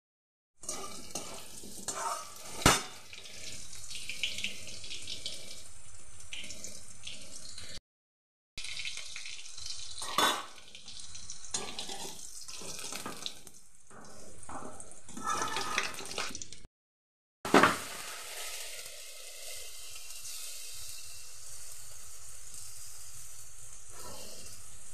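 Potatoes frying in hot oil in a steel kadai, with a steady sizzle and a spatula scraping and now and then knocking sharply against the pan. It breaks off in two short silences, and near the end only the oil sizzles on its own.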